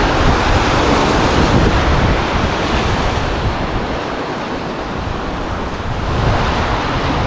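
Lake waves washing in, with gusty wind buffeting the microphone. The rush eases a little around the middle and then swells again.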